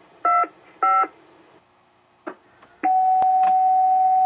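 Railroad two-way radio: two short touch-tone beeps, a click, then one long steady beep lasting a little under two seconds, as a crew dials up the dispatcher.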